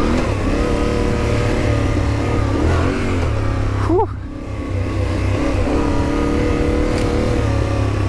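Yamaha Ténéré 700 parallel-twin engine running under throttle on the trail. Its pitch rises sharply about four seconds in, then dips briefly before it pulls again.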